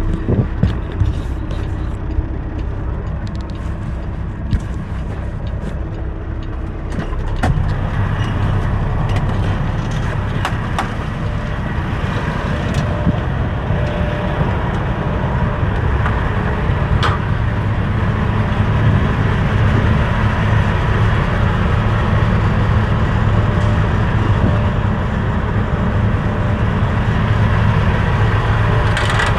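Semi truck's diesel engine running as the tractor drives, a steady low rumble that grows louder about eight seconds in as it pulls harder, with a few clicks near the start.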